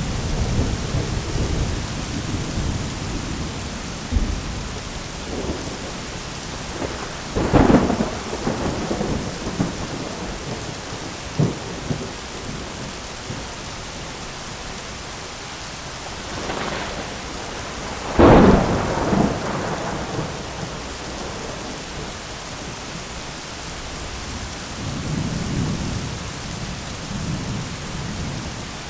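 Thunderstorm: steady rain hiss with rolling thunder. Low rumbles at the start and near the end, and sharp thunderclaps about a quarter of the way in and, loudest, a little past halfway.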